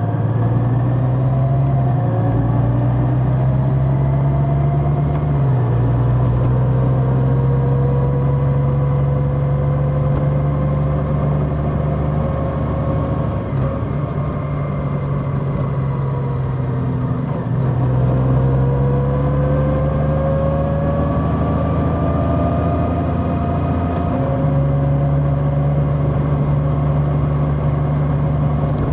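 Large motorcycle's engine running under way, its pitch rising as it accelerates and stepping back down several times as it shifts gears.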